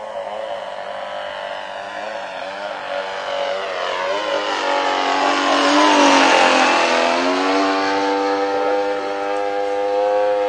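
Quadra Q65 two-stroke gasoline engine of an RC Fly-Baby biplane running in flight. It grows loudest as the plane passes close about six seconds in, where the pitch dips and comes back up, then holds steady.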